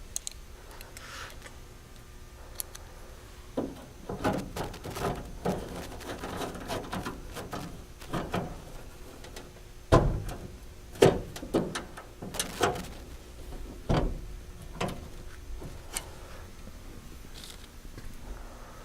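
Irregular clicks, knocks and rubbing of hand tools and metal truck-door parts being handled, with several sharper knocks between about ten and fourteen seconds in.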